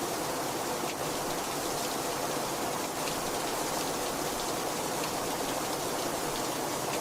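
Heavy rain falling steadily, a dense even hiss with fine drop patter.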